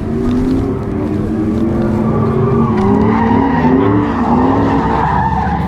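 A drift car's engine revving up and down through a slide, with its tyres screeching on the track.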